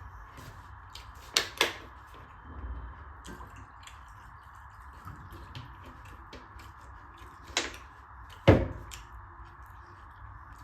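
Close-miked eating sounds: faint chewing and mouth clicks over a steady hiss. Two quick sharp knocks come about a second and a half in, and two more near eight seconds, the last the loudest and deepest.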